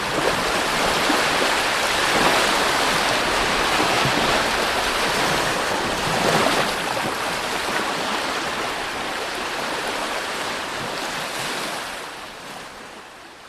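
Sea waves breaking and washing on the shore: a steady rush that swells twice, about two seconds in and again past six seconds, then fades out near the end.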